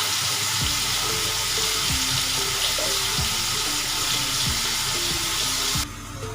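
Onions frying in hot oil in a cooking pot, browning to light red: a steady sizzle that cuts off suddenly near the end. Soft background music plays underneath.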